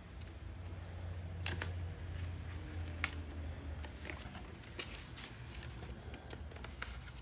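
Scattered light clicks and taps from handling small objects, over a low steady hum.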